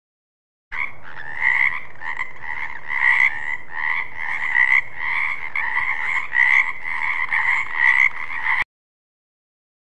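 Frog croaking over and over, short repeated calls about two a second, starting a moment in and cutting off suddenly near the end.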